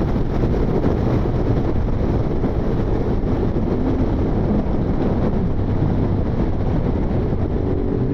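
Motorcycle on the move: steady wind rush and engine and road noise on a rider-mounted microphone. Near the end a faint rising engine note comes through.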